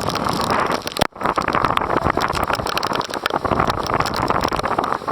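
Heavy storm rain and gusting wind buffeting the microphone, with a dense patter of drop hits; the sound cuts out for an instant about a second in.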